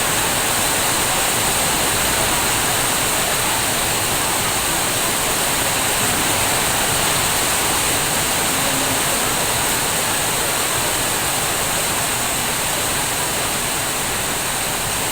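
Rain pouring down steadily, a dense, even hiss with no letup.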